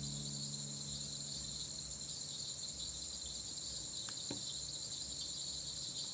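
Crickets chirring steadily at a high pitch, with a fainter pulsing trill above them. A couple of soft clicks come about four seconds in.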